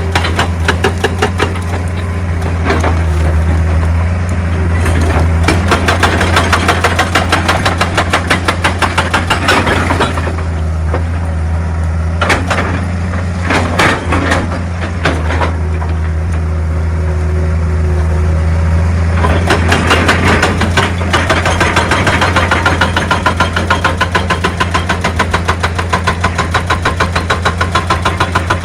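Excavator's diesel engine running steadily, with a rapid, regular knocking over most of the stretch. A few separate knocks stand out about midway, where the knocking eases.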